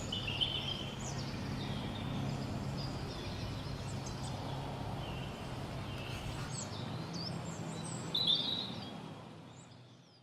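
Outdoor woodland ambience: small birds chirping and calling in short scattered notes over a steady low background rumble, all fading out over the last couple of seconds.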